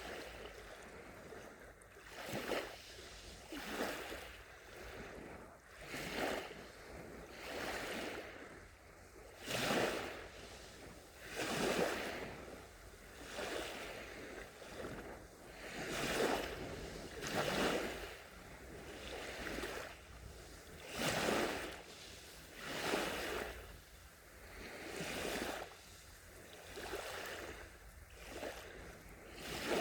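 Small, gentle sea waves lapping and washing onto the shore, a soft surge of water every second or two.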